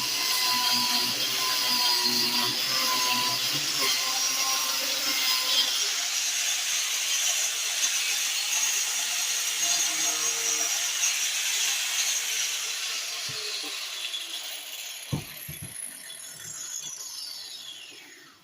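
Grinder running and cutting through ceiling tile, then winding down near the end with a falling whine.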